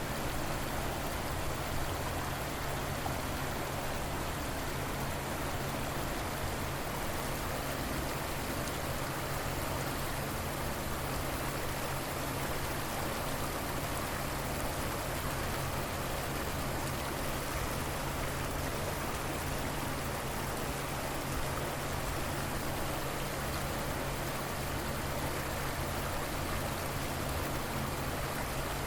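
River water flowing steadily, an even rushing wash with no changes, over a faint low steady hum.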